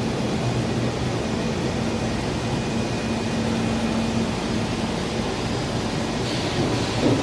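Rubber extrusion and microwave hot-air curing line running: a steady rush of air over a low machine hum. A higher hiss joins about six seconds in, and there is a brief knock near the end.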